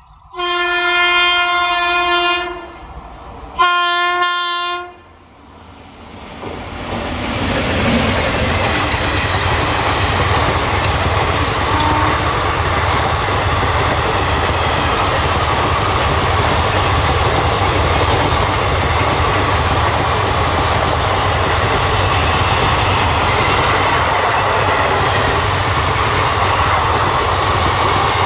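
Indian Railways electric locomotive's horn sounding twice, a long blast of about two seconds and then a shorter one. After that, a passenger train of ICF coaches runs past close by with a loud, steady noise of wheels on the track.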